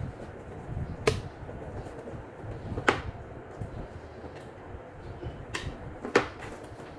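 Handling noise from unpacking: four sharp knocks or clicks over a low rumble of things being moved about.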